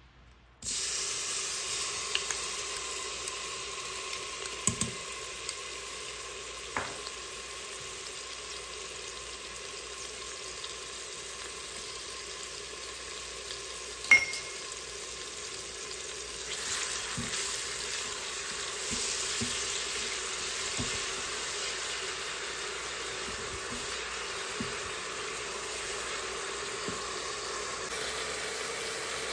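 Food sizzling as it fries in a hot pan, a steady hiss that starts suddenly just under a second in. Scattered light clicks and taps of a utensil against the pan are heard, with one sharper knock about 14 seconds in.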